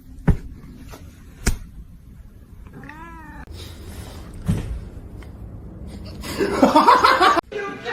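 A cat meows once, a short call that rises and falls in pitch about three seconds in, after two sharp clicks. Near the end comes a louder, rougher burst of sound lasting about a second.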